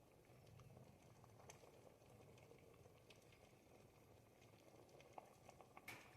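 Pot of ribollita, a thick Tuscan bread-and-vegetable soup, simmering: soft bubbling with scattered small pops, and one louder pop near the end.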